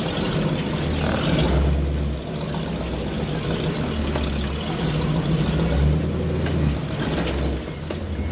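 Off-road vehicle engine running under way on a dirt trail, its low drone swelling and easing every second or two, with a steady haze of road and wind noise.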